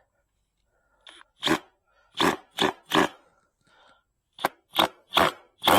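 About nine short, loud knocks from tool work on the fence's wood, in two quick runs with a pause between them, while a screw will not go into the wood.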